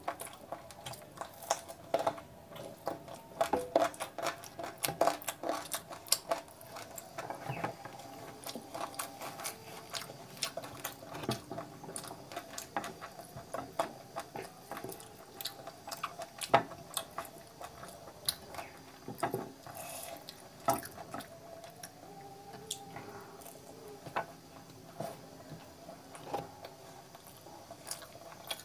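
Close-miked eating sounds: chewing and wet mouth smacks as chicken curry and puri are eaten by hand, with many irregular sharp clicks.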